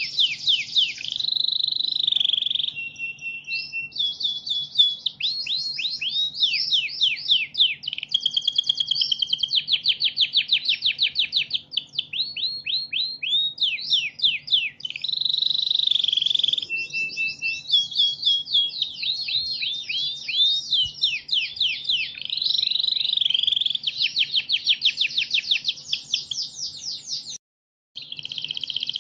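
Canary singing a long, nearly continuous song of fast trills and repeated chirping phrases, with a brief break near the end.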